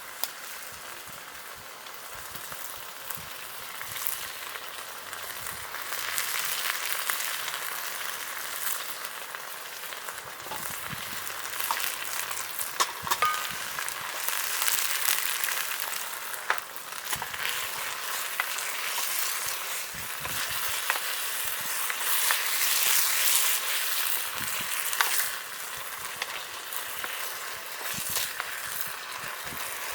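Food sizzling in a pan over a campfire, a hiss that swells and eases, with scattered sharp clicks.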